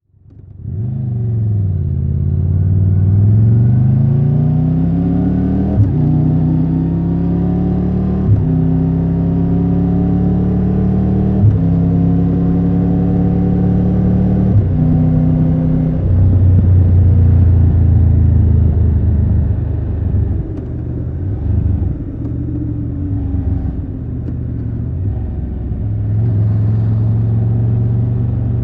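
Triumph Tiger 1200 Rally Pro's three-cylinder engine pulling away and accelerating up through the gears. Its pitch climbs and then drops at four upshifts, each with a short click. Afterwards it holds a steadier, lower note, eases off for a few seconds and picks up again near the end.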